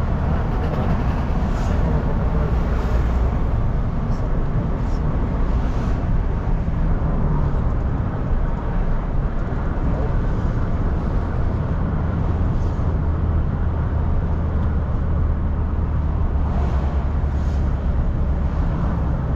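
Car cabin sound while driving: a steady low rumble of engine and tyre noise.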